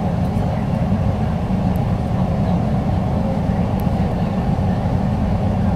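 MTR South Island Line S-Train running at speed between stations, heard from inside the car: a steady low rumble of wheels on rail and traction running gear.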